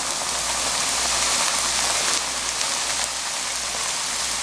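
A large sheet of dried scorched rice (nurungji) deep-frying in shallow hot oil: a dense crackling sizzle, easing slightly about halfway through.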